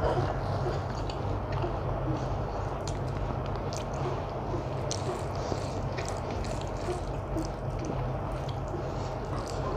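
Close-miked eating by hand: wet squishing and smacking of chewing rice and vegetable curry, with scattered short clicks of mouth and fingers. A steady low hum runs underneath.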